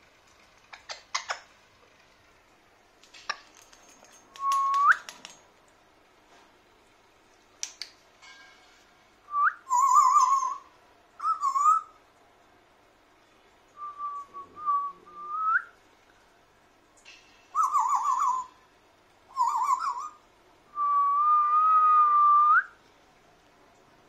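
An African grey parrot and a person exchanging whistles: a run of whistles around one pitch, several held notes that flick upward at the end and some with a quick warble, the longest near the end. A few sharp clicks sound in the first few seconds.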